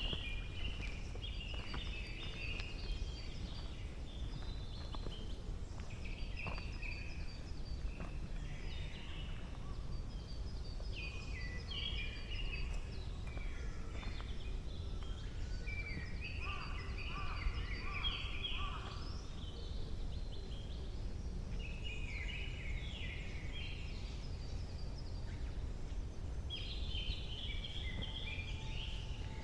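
Songbirds singing in a forest, short varied phrases coming every few seconds, with a high rapid trill now and then, over a steady low background rumble.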